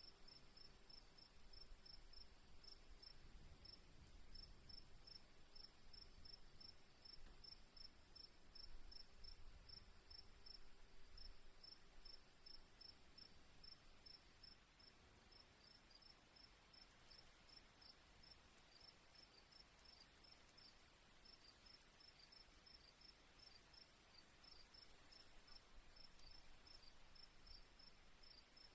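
Crickets chirping faintly: a steady high trill with a regular series of short chirps, about three or four a second.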